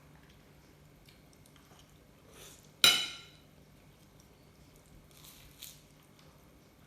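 Cutlery clinking once against a plate or bowl about three seconds in, a sharp ringing strike, with a softer scrape just before it and faint handling sounds afterwards.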